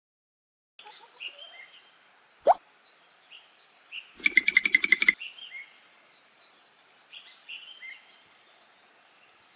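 Small birds chirping with short, scattered high calls, broken by a loud rapid chattering trill of about a dozen notes in under a second, about four seconds in. A single sharp pop sounds about two and a half seconds in.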